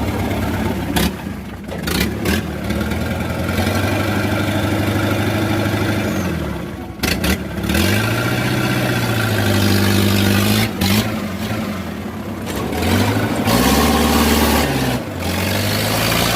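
Motor vehicle engine revving up and easing off several times, with a few sharp knocks in between.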